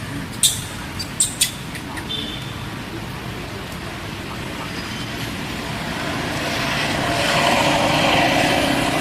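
A few sharp clicks in the first second and a half, then the noise of a passing vehicle that grows louder over several seconds and starts to fade near the end.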